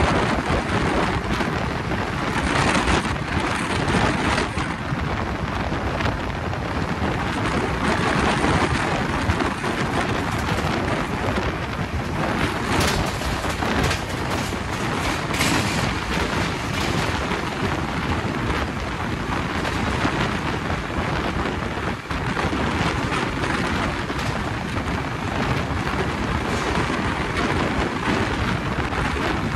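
Passenger train running at speed: a steady deep rumble and rush of wheels and air, with a few brief sharper rattles.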